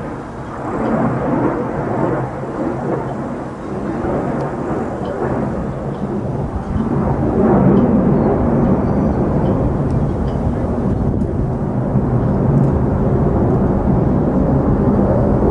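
Jet roar of an F-35A Lightning II's single afterburning turbofan during a flying display: a deep, steady rumble that grows louder about halfway through.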